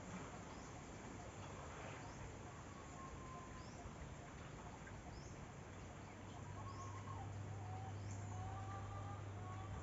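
Faint outdoor ambience of birds: short, high, upward chirps repeating roughly once a second, with a few faint whistled notes in the second half. Underneath is a steady low hum and a background hiss.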